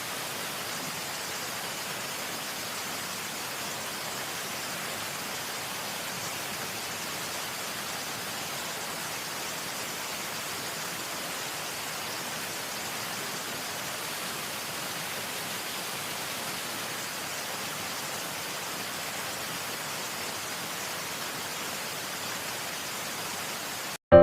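A steady, even hiss with no rhythm or tones, holding one level and cutting in and out abruptly.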